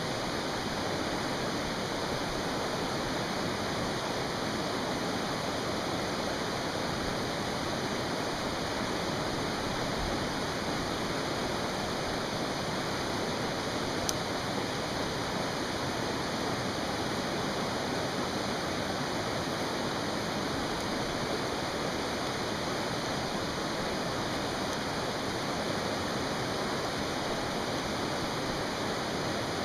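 A mountain stream rushing steadily. One sharp pop from the campfire's burning wood about halfway through.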